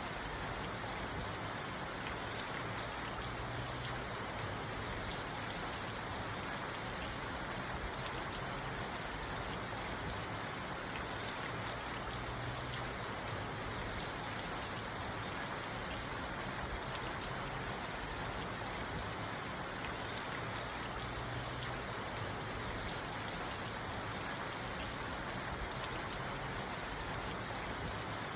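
Steady rain falling on a parked car, heard from inside the car, with scattered drop ticks on the roof and glass.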